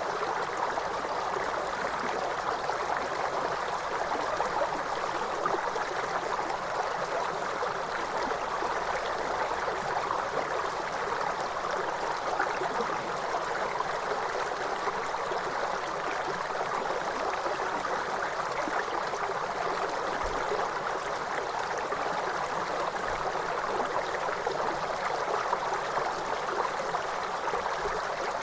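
Cascading water of a waterfall: a steady, even rush of splashing water without change.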